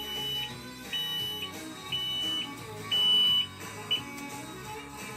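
Electronic beeper sounding about once a second, five high beeps, the last one cut short, over background music.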